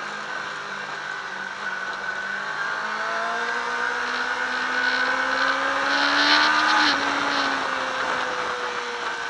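Sport motorcycle engine at speed on a race track, heard from the bike itself over steady wind noise. The engine note climbs slowly under acceleration, breaks and drops about seven seconds in, then falls away gently.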